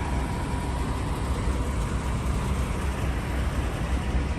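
Diesel semi-truck engine idling, a steady low rumble.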